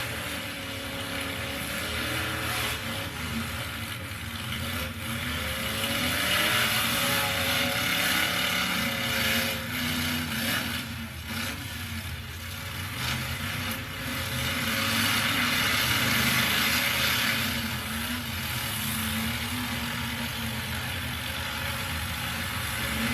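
Engines of several demolition derby trucks revving up and down as they drive and hit one another, with a few sharp knocks of impacts about halfway through.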